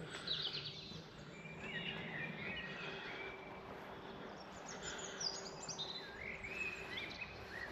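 Songbirds singing, with many short chirps and warbling phrases overlapping, over a steady outdoor background hiss and a faint low hum.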